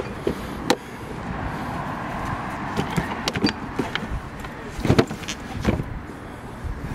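A plastic cooler and foam containers being handled in a car trunk: a series of knocks, bumps and scrapes, the loudest knock about five seconds in.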